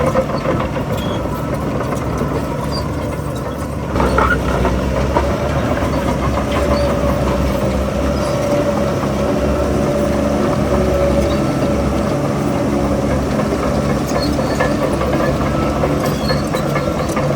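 Heavy diesel engine of construction machinery running steadily, stepping up in level about four seconds in as it takes more load.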